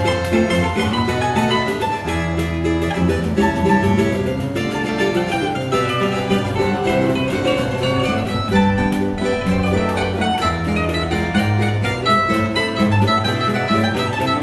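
Choro ensemble playing an instrumental piece on plucked string instruments, a guitar bass line moving under a quick plucked melody.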